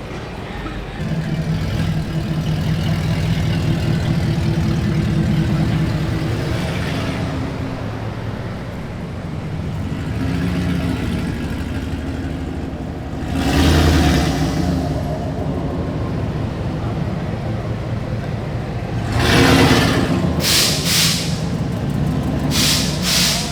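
A truck engine running steadily, with sharp hisses of released air: one a little past halfway, another about 19 seconds in, then several short ones in quick succession near the end.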